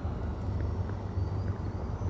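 Gusty wind buffeting the microphone in a snowstorm, a choppy low rumble that rises and falls.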